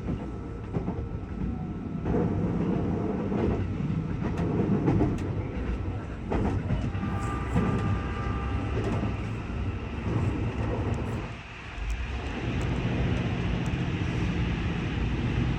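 Train running on the rails: a steady low rumble with some clatter of the wheels, and a faint high tone from the wheels or brakes partway through.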